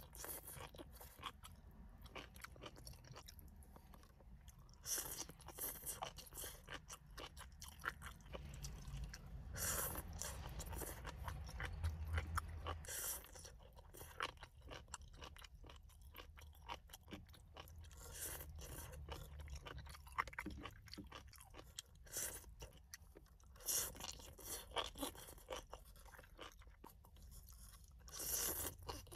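Seaweed salad being chewed close to the microphone: irregular crisp crunches, with louder bursts of crunching every few seconds.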